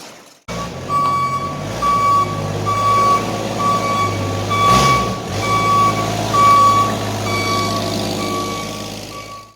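Electronic beeping of one steady pitch, repeating about every 0.7 seconds, over a steady low engine-like hum.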